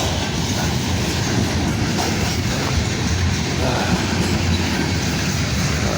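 Freight cars rolling past close by: a steady rumble and clatter of steel wheels on the rails.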